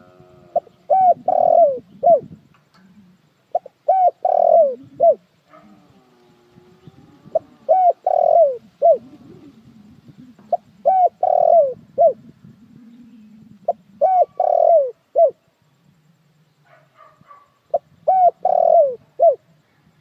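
Spotted dove cooing: six phrases, each a few short notes around one longer falling coo, repeated about every three and a half seconds.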